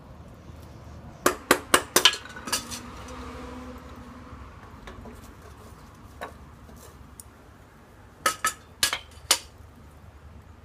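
Small metal camp-stove and cookware parts clinking and clanking as they are handled. There are two bursts of sharp metallic clinks, one about a second in and one near the end.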